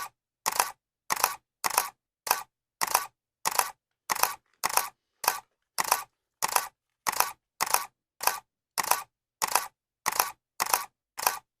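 Camera shutter clicking over and over at an even pace, a little under two clicks a second, each click a quick double snap with silence between.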